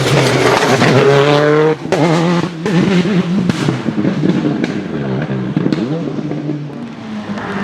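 Citroën Xsara WRC rally car's turbocharged four-cylinder engine revving up, cutting off sharply just before two seconds in, then running at lower, wavering revs with several sharp cracks from the anti-lag system.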